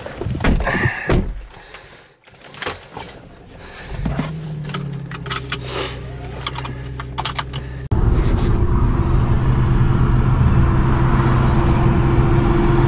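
Clicks and rattles of a driver getting into a B8 Audi S4, then about four seconds in its engine starts and settles into a steady idle. A couple of seconds later it switches abruptly to the engine running steadily and louder while driving, heard from inside the cabin.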